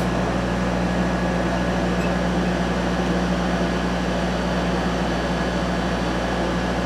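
Steady machine hum from a running electric motor: a low drone at an even level, with no change or breaks.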